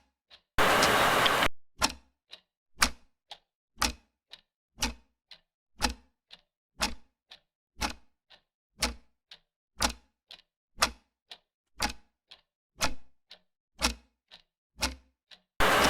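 Clock ticking steadily, about two ticks a second, alternating a louder tick with a low thud and a softer one. A burst of hiss about a second long cuts in near the start and again at the very end.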